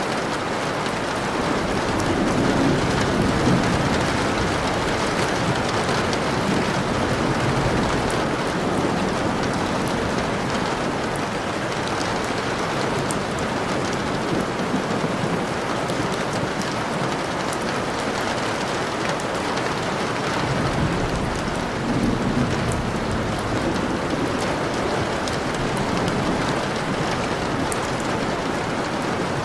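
Steady rain falling, with scattered drop ticks and two low rumbles of distant thunder, one a couple of seconds in and one about three-quarters of the way through.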